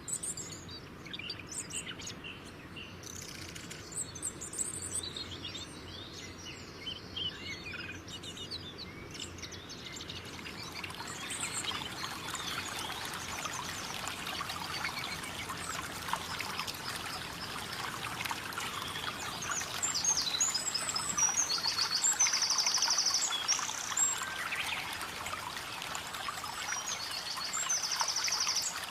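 Birds chirping and singing over steadily trickling, splashing water. The water grows louder about ten seconds in, and near the end come a few fast trilled bird calls.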